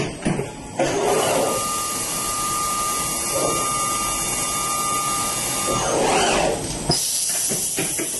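CNC machining center running, with a steady high whine over machine noise for about five seconds, then a change in the noise and a few clicks near the end.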